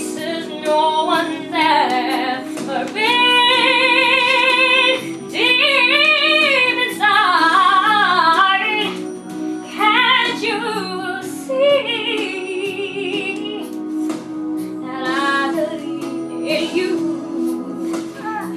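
A song with a woman singing over instrumental accompaniment, holding several long notes with a strong vibrato.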